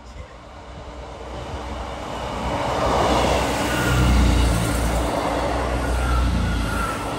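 Two coupled Class 158 diesel multiple units passing through the platform: the rumble of wheels on the rails and the underfloor diesel engines swells up, is loudest in the middle, then eases off near the end.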